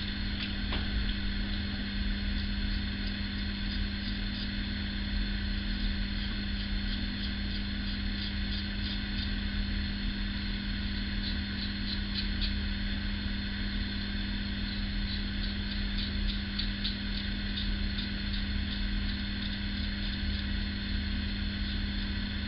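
Single-edge safety razor scraping through stubble in short strokes, heard as quick runs of crisp ticks in several bouts. A steady low electrical hum runs underneath.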